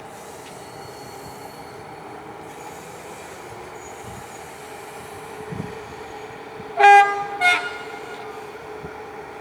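A locomotive horn sounds two short blasts about seven seconds in, the second shorter and following about half a second after the first. Underneath is the steady hum of a train standing or moving slowly.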